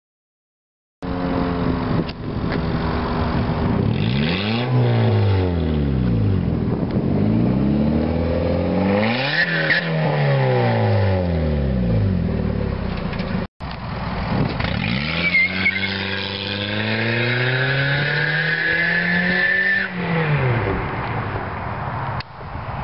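2003 Honda Civic's 1.7-litre four-cylinder engine running through an exhaust cutout, revved up and back down twice. After a brief break it climbs again, holds a slow rise for a few seconds, then drops back.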